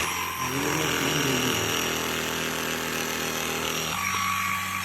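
Dibea FC20 cordless stick vacuum running steadily with a motor whine, its tone shifting slightly about four seconds in.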